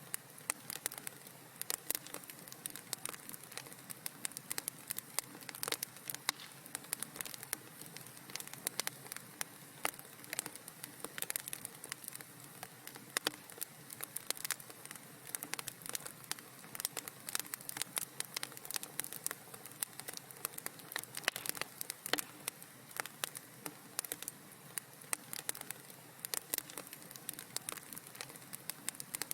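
Wood fire in a fireplace crackling and popping, with many irregular sharp snaps over a soft steady hiss.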